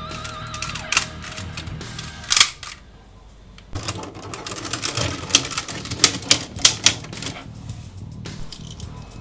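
Sharp clicks and snaps of plastic toy parts being handled, with a quick run of clicks in the second half, over background music.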